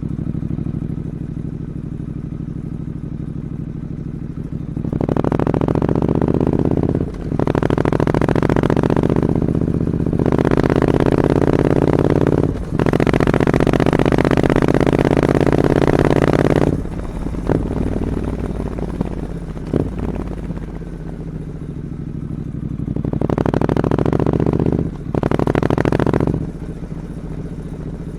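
Triumph Scrambler 900 parallel-twin engine through a 2-into-1 exhaust, idling and revved repeatedly while standing: a run of revs held for two to four seconds each in the first half, two short blips in the middle, and two more revs near the end, settling back to idle between them.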